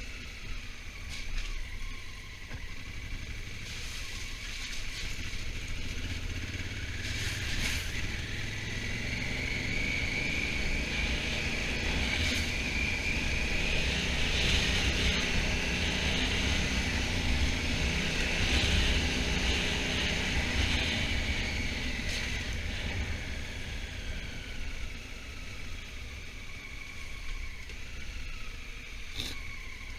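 Honda Africa Twin motorcycle being ridden, heard from on the bike over a steady low wind rumble. The whine rises in pitch and grows louder through the first half as it speeds up, then falls away as it eases off toward the end.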